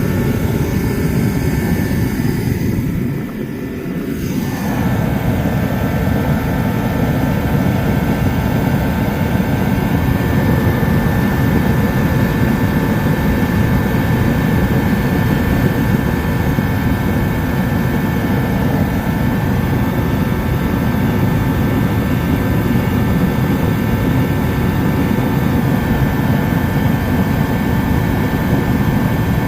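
Dyna-Glo KFA80H 80,000 BTU forced-air heater running on diesel: a steady burner-and-fan roar with a thin whine over it, dipping briefly about three seconds in. The owner says it is burning poorly, smoky and spitting diesel, and not putting out the heat it should.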